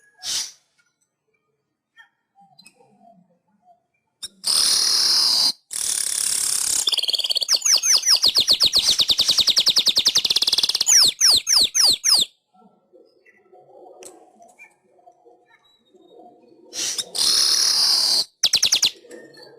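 Manyar (weaver bird) song: buzzy, hissing bursts a few seconds in, then a fast run of rising chirps for about four seconds that ends in a few slower sweeps, and another buzzy burst near the end.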